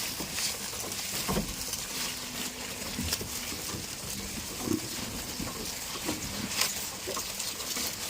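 Goats making short, scattered low sounds, with rustling over a steady hiss.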